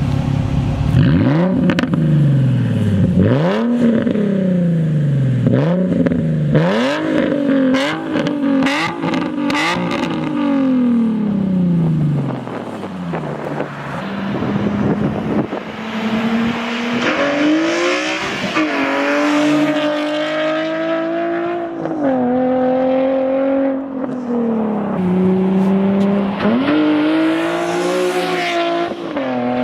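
Nissan 350Z Nismo's 3.5-litre VQ V6 revving through a new Tomei exhaust, with the catalytic converters still fitted. First comes a string of about seven quick throttle blips, each rising and falling. Then come longer held revs, stepping up and down, from about halfway in.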